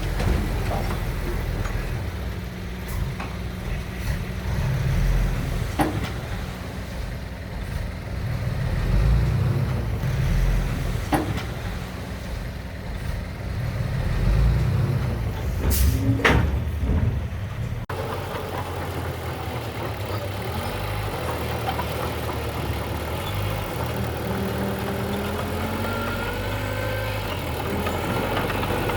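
Heavy diesel engine of earthmoving machinery running, with a few sharp metallic knocks, the loudest about two-thirds of the way through. Soon after, the sound cuts abruptly to another engine whose pitch rises and falls as it is worked.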